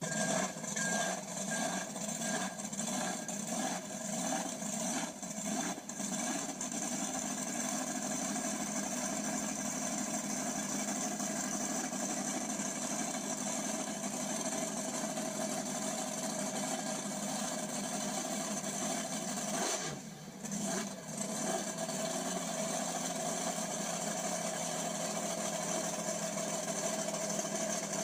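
Monster truck engine running, rising and falling unevenly for the first few seconds, then running steadily, with a brief dip about 20 seconds in.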